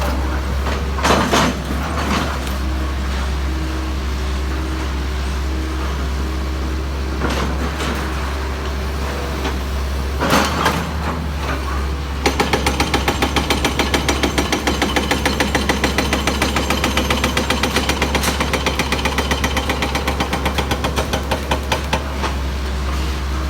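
Heavy machinery running with a steady low engine drone and a few brief surges. About halfway through, a rapid, even mechanical hammering starts at roughly six or seven blows a second, runs for about ten seconds, then stops.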